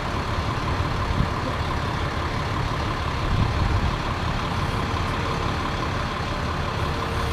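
Bucket truck's engine running steadily at a constant speed while the boom lifts a dead tree.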